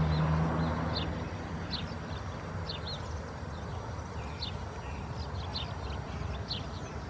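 A bird's short high chirp repeating about once a second over a steady outdoor rumble, with a low hum fading out over the first two seconds.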